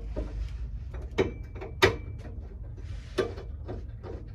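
Metal parts and hand tools clinking and scraping during work under a car, with three sharp metallic clanks about a second apart. The middle clank is the loudest and rings briefly.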